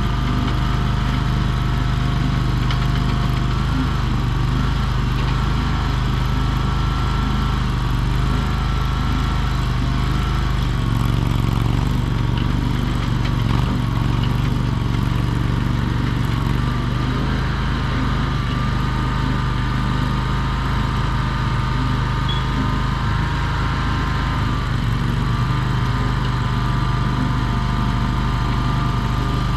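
Chinese mini skid steer's engine running steadily, with a higher whine over it that shifts in pitch several times.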